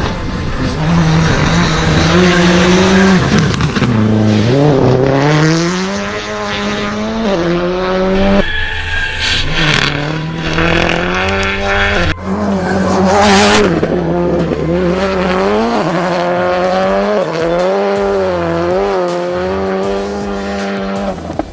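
Car engines revving, their pitch rising and falling over several seconds, with tyre squeal, as in auto racing.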